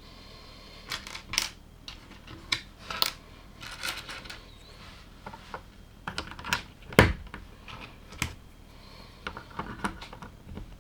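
LEGO plastic pieces being handled during building: irregular clicks and short clatters as bricks are picked up and snapped together, with one louder knock about seven seconds in.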